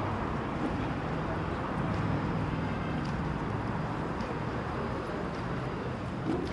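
Steady low rumble and hiss of background noise, with faint low humming tones that shift slightly in pitch.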